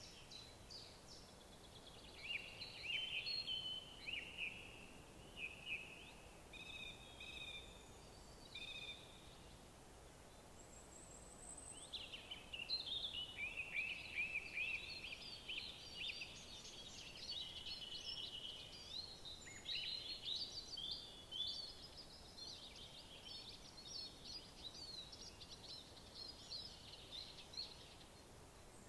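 Woodland birdsong: several birds singing in quick chirping, warbling phrases, with a brief lull about ten seconds in before the singing picks up again, over faint steady background noise.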